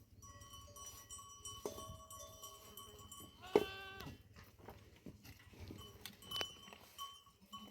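Bells on grazing sheep and goats ringing and clanking, with one loud bleat from the flock about halfway through.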